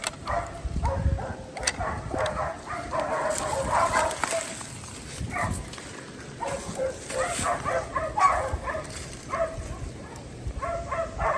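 West Siberian Laika hunting dogs barking repeatedly, baying at a bear treed nearby.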